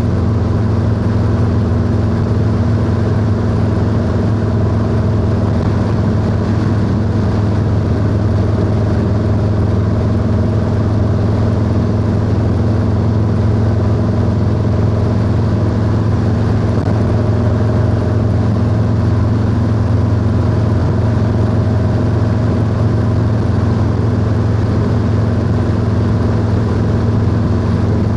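Harley-Davidson Low Rider S V-twin engine running steadily through a 2-into-1 exhaust at an even cruising speed, with no change in revs, under a steady rush of wind and road noise.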